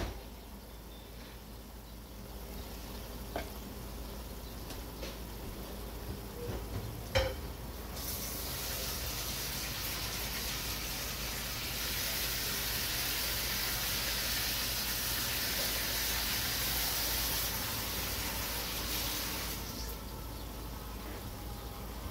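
Whole pigeons frying in oil and spiced masala in an aluminium pot: a steady sizzle that grows louder about eight seconds in and eases off near the end. A few sharp knocks come near the start and about seven seconds in.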